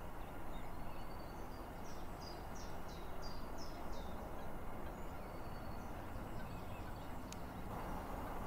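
A small bird singing a quick run of short, high, falling chirps a little over a second in, and a few more later, over a steady outdoor background hiss.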